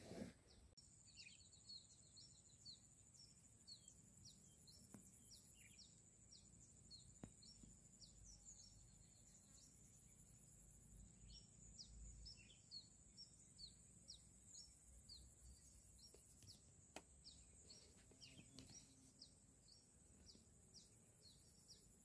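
Faint birds chirping in the paddy: many short, quick, high chirps repeated a few times a second, over a steady high thin whine, with a few faint ticks.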